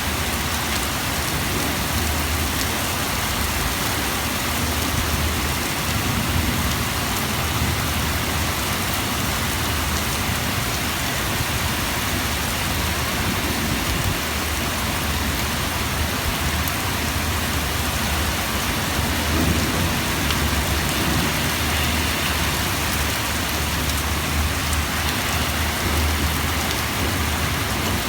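Heavy rain pouring steadily, a dense hiss of drops hitting surfaces. Underneath it a low rumble comes and goes.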